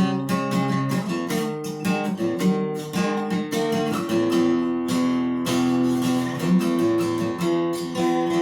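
Acoustic guitar strummed with no voice, several chord strokes a second. From about four seconds in, a chord is held and re-struck, and the last stroke near the end is left ringing.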